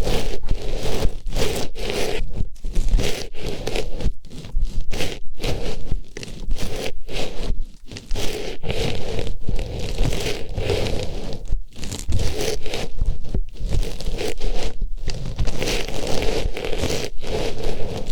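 An artificial flower pushed into and rubbed around a microphone's ear, making close, loud rustling and scratching in quick, irregular strokes with a few brief pauses.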